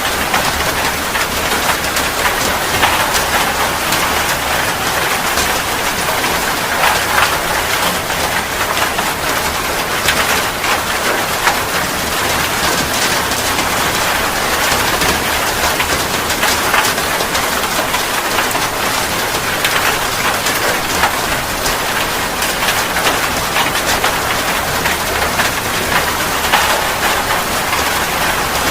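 Steady heavy rain falling on a surface, a dense even patter of many drops without a break.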